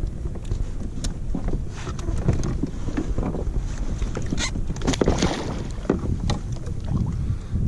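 Water slapping against a kayak hull, with scattered knocks and splashes. Wind rumbles on the microphone throughout.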